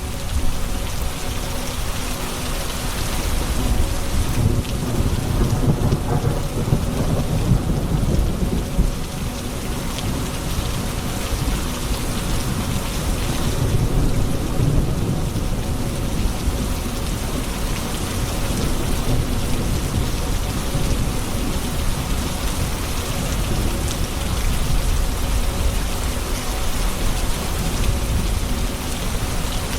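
Steady heavy rain with low rolling thunder rumbling underneath, swelling a few seconds in and again near the middle.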